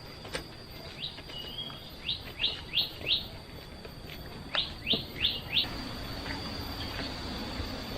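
A bird calling in short runs of three or four quick notes, each sweeping downward, in about three bouts, over a faint steady high tone.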